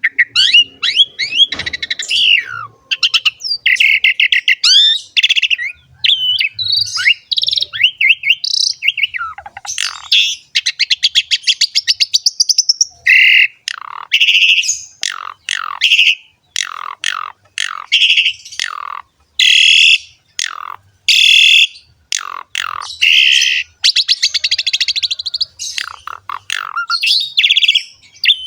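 Asian pied starling (jalak suren) singing continuously in full, varied song. It mixes whistled notes and downward sweeping calls, a fast rattling trill about ten seconds in, and harsh raspy notes in the second half.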